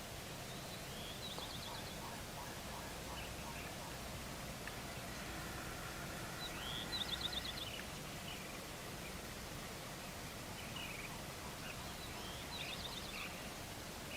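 Gould's wild turkey gobbling three times, five to six seconds apart; each gobble is a quick rising note breaking into a fast rattle, the middle one the loudest. Other birds call faintly between the gobbles.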